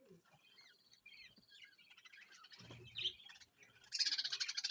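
Budgerigars chirping and twittering in short calls, then from about four seconds in a loud, harsh, rapidly pulsing chatter.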